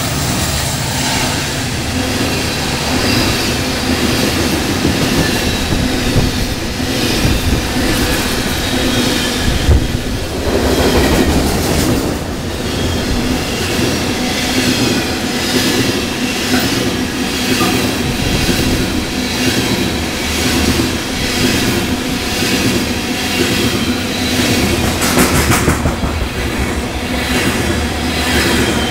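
Empty coal hopper cars of a freight train rolling past close by, their steel wheels clacking over the rail joints, with faint wheel squeal.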